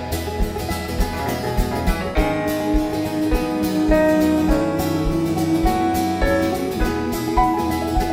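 A live band plays an instrumental break in a country arrangement of a folk song: guitars and held melody notes over a steady beat, with no singing.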